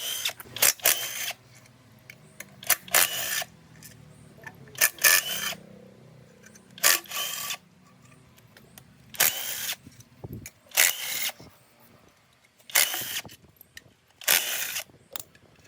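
A workshop power tool run in short bursts, about a dozen triggers of roughly half a second each at irregular intervals.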